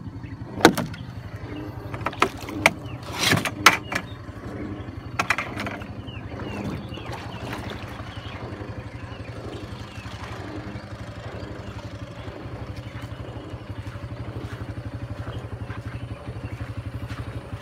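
A small engine idling steadily with an even low pulse. A handful of sharp knocks and clatters come over it in the first five or six seconds.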